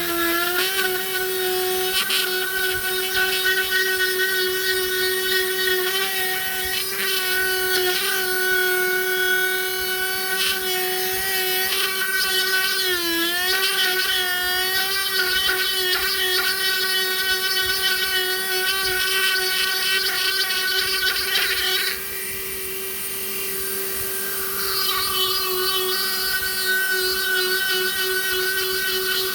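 High-speed handheld rotary carving tool whining steadily as it grinds away wood, its pitch sagging briefly under load near the middle. About three-quarters of the way through, the grinding hiss drops out for a couple of seconds while the motor keeps spinning, then the cutting resumes.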